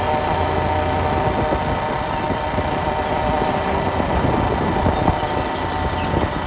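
Motorbike engine running steadily, a constant hum with no change in speed.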